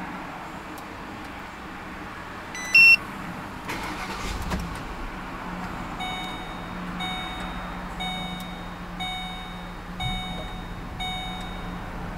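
Ford Explorer engine remote-started by a Viper 791V-SL system, heard from inside the cabin: a short loud beep, then the engine cranks and catches about four and a half seconds in and settles into a steady idle. A chime rings about once a second, six times, over the idle.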